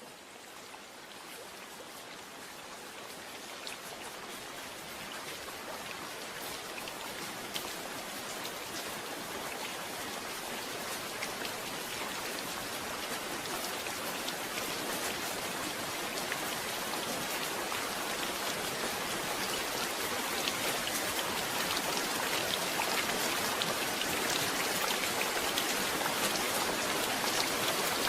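Steady rain falling, with single drops ticking through the hiss; it grows gradually louder throughout.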